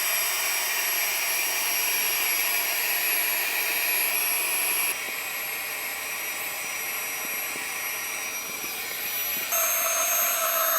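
Flextail Gear battery air pump running with a steady high whine as it inflates an air bed. Its note changes about halfway through and jumps higher near the end as the bed firms up and the pump nears the most pressure it can give.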